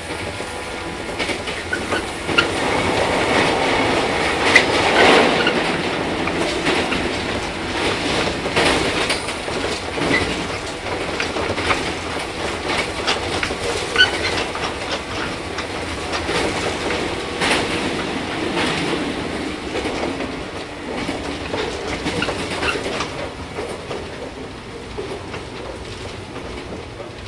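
Running sound of a 415 series 100-subseries electric multiple unit heard from on board: the wheels clack steadily over rail joints, with a few brief high wheel squeaks. It is loudest about five seconds in and grows gradually quieter.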